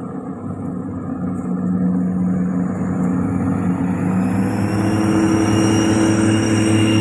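Diesel railcar's engines running steadily and growing louder from about four seconds in, as a steady high whine joins the low engine tones.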